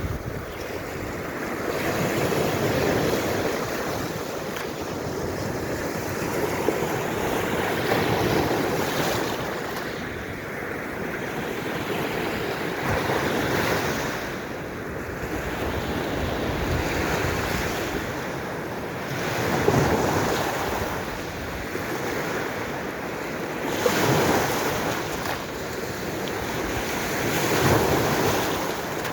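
Baltic Sea waves surging and washing in, swelling and easing every few seconds, with wind on the microphone.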